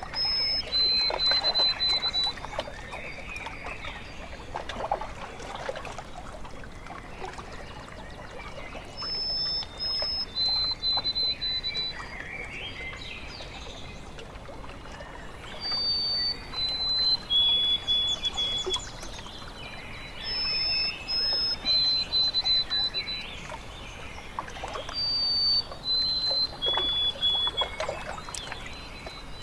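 A songbird singing a short phrase of clear whistled notes that step down in pitch, repeated about five times, with gentle water lapping and trickling underneath.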